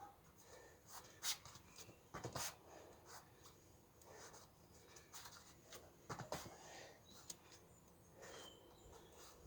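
Quiet room with scattered thuds and scuffs of bare feet landing and pivoting on the floor during jumping spin kicks. The louder knocks come about a second in, at two seconds and at six seconds.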